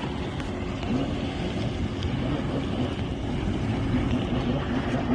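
Jet ski engine running steadily with a low, slightly wavering hum, mixed with wind and water noise.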